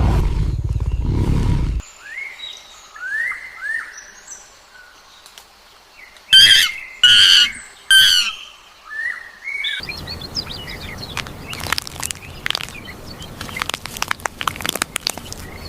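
The tail of a big cat's roar that ends about two seconds in, then birds chirping in short rising notes, with three loud harsh calls about six to eight seconds in. From about ten seconds on comes a stretch of dense clicking and crackling.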